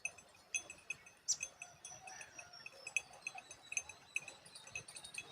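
Birds chirping: many short, high chirps, with a quick falling whistle about a second in.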